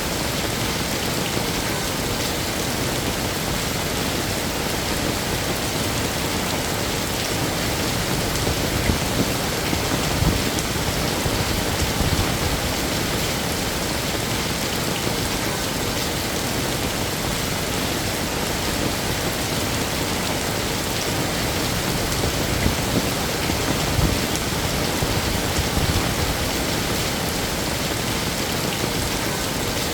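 Heavy rain falling steadily, a dense even hiss of rain on a hard surface, with a few slightly louder spells of drops.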